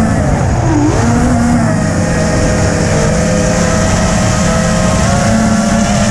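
FPV quadcopter's electric motors and propellers whining, the pitch drifting up and down with throttle changes and dipping about a second in, over a heavy rumble of strong wind buffeting the microphone.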